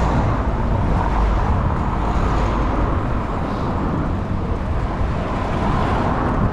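Steady wind rush and rumble on the microphone of a camera riding along on a moving bicycle, with outdoor road noise mixed in.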